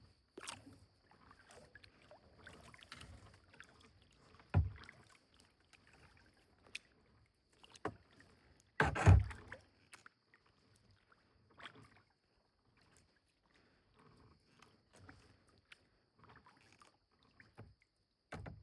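Kayak paddling: the paddle dipping and dripping in the water, with occasional knocks against the boat, the loudest about nine seconds in.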